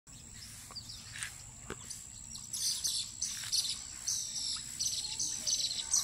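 Birds chirping and calling in quick high runs that grow busier and louder from about halfway through.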